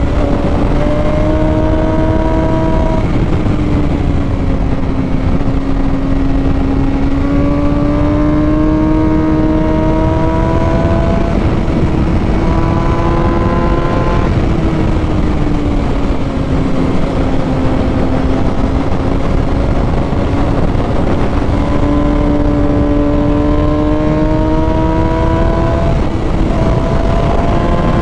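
600cc inline-four sportbike engine running at high revs, heard from on board while riding, its pitch rising and falling gently a few times with the throttle. Heavy wind rush on the microphone lies under it.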